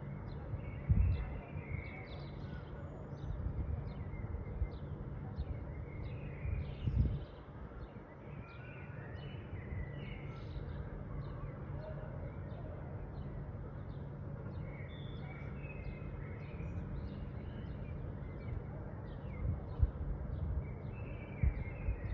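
Small birds chirping and twittering, many short, quick high calls overlapping throughout, over a steady low outdoor rumble, with a couple of dull low thumps about a second in and again near seven seconds.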